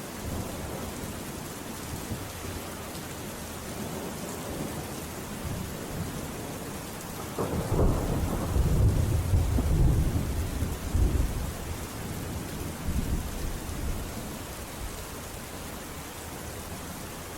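Steady rain falling, with a roll of thunder that builds about halfway through, rumbles for a few seconds and fades away.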